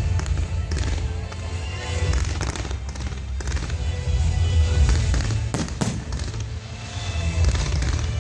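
Fireworks display going off: repeated bangs and crackles in quick succession, with a cluster of sharper bangs about two-thirds of the way through, over loud music with heavy bass.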